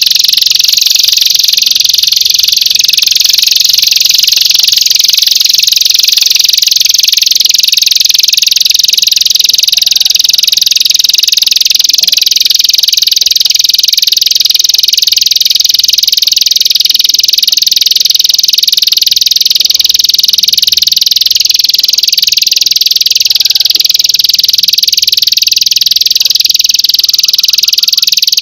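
An animal's continuous high-pitched trill, played loud without a break as a masteran recording for teaching songbirds.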